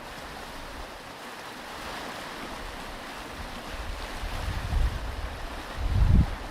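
Ocean surf washing onto a beach, swelling about two seconds in, with wind buffeting the microphone in low rumbling gusts near the end, loudest just before the end.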